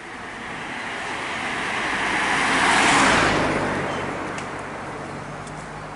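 A car drives past, its tyre and engine noise swelling to a peak about halfway through and then fading away.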